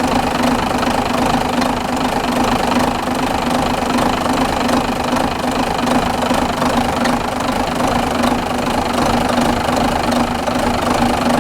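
Renault Major truck's diesel engine idling steadily and evenly after an injector repair.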